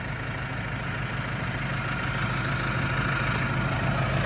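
Diesel engine of a New Holland Powerstar 75 tractor idling steadily, with a low, even hum that grows gradually louder.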